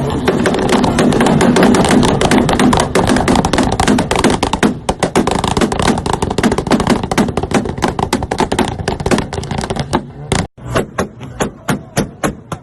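Car engine held on a two-step launch-control rev limiter, its exhaust popping and banging in a rapid, continuous stream. About ten and a half seconds in it cuts out briefly, then the pops come slower and evenly spaced, about three a second.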